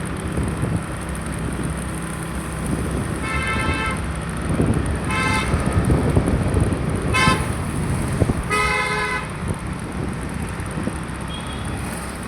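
Vehicle horns honking four short times over a steady rumble of road traffic; the last honk is the longest, about a second.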